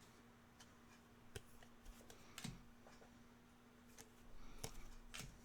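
Faint clicks and soft rustles of trading cards being handled and flipped, a few scattered taps over a faint steady hum.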